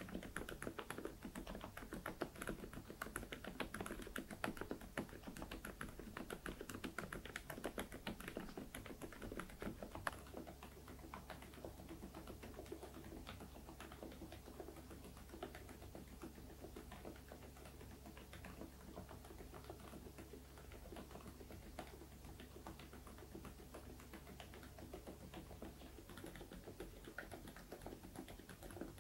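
Continuous typing on an Interpixel IPK104 PRO full-size keyboard with Outemu Peach V3 silent switches, a quiet, rapid run of keystrokes. The keystrokes grow a little softer from about ten seconds in.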